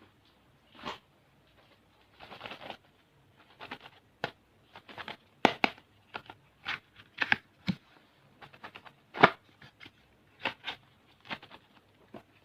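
Small plastic candy packets being handled: irregular sharp crinkles, taps and rustles, with a longer crinkling stretch about two seconds in.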